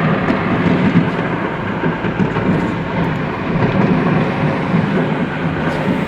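Fireworks going off together in a loud continuous rumble with dense crackling.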